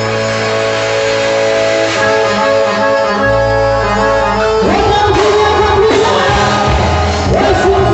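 Live forró music from a regional band: accordion-led instrumental chords over a steady bass, with a voice beginning to sing a little past halfway.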